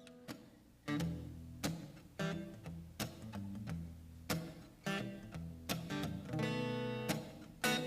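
Acoustic guitar picking the song's intro, a string of plucked notes and chords each ringing out, with one longer held chord near the end.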